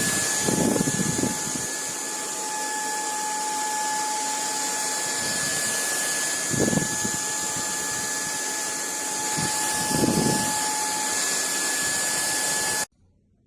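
Bulelink cordless stick vacuum running, a steady motor whine over a hiss, with a few brief low thumps. It stops abruptly near the end.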